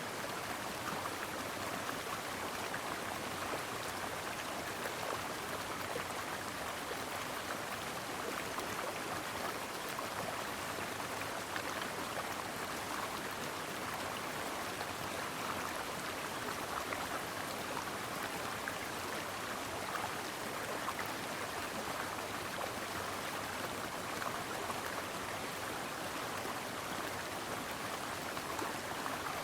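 Stream water flowing steadily over rocks, an even rushing babble with fine splashy detail.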